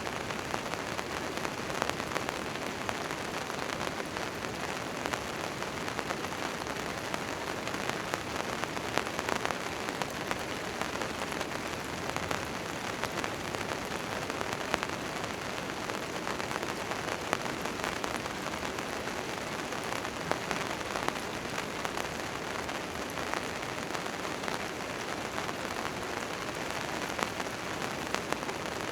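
Rain falling on a tent tarp: a steady hiss of rain with many separate drops ticking on the fabric.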